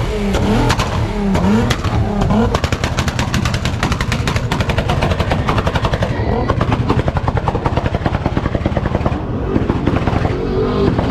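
A car engine revved hard, its pitch sweeping up and down in the first couple of seconds, then a fast, continuous run of sharp pops for several seconds before easing near the end.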